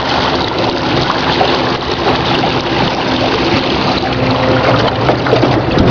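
Water rushing and splashing along the hull of a small electric-motor boat under way, over a steady low hum.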